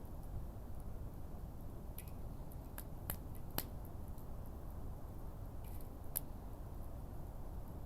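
Wood fire burning: about six sharp crackles and pops, the loudest a little past three and a half seconds in, over a steady low rumble.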